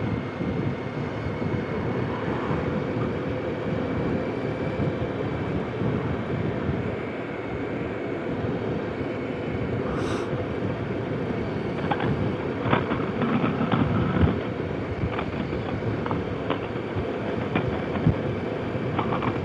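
Steady rush of wind and road noise from a motorcycle ride, picked up by a helmet-mounted intercom microphone, with a few faint clicks.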